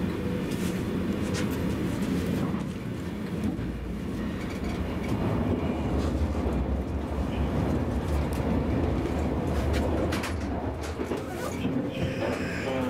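Interior running noise of a double-deck TGV inOui: a steady low rumble from the running gear with scattered light clicks from the track.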